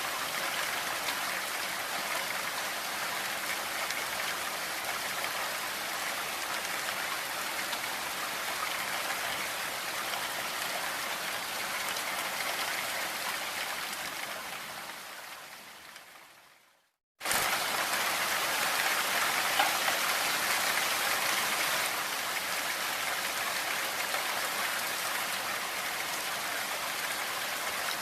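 Steady rain falling, a dense even hiss. About halfway through it fades out over a few seconds to a brief silence, then comes back in suddenly at full level.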